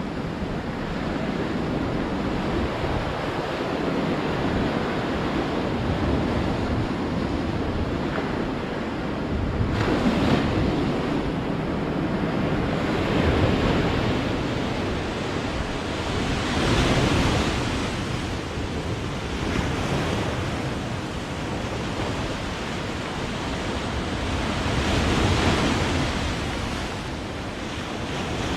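Ocean waves breaking on the shore, a continuous wash of surf that swells louder every few seconds as each wave breaks.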